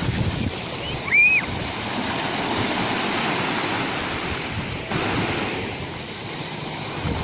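Sea waves washing on the shore in a steady rushing noise, with one short high-pitched chirp about a second in.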